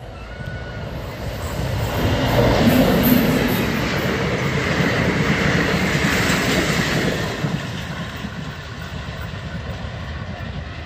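Indian Railways passenger train of blue coaches passing at speed, the wheels running over the rails. It swells about two seconds in, is loudest about three seconds in, and falls away after about seven and a half seconds as the last coaches go by.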